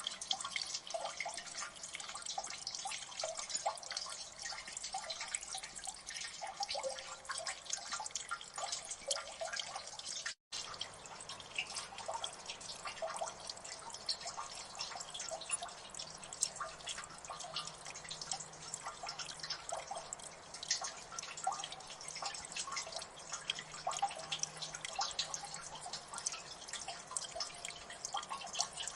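Water dripping in a gully: many drips falling close together and overlapping into a dense, steady dripping. It cuts out for an instant about ten seconds in.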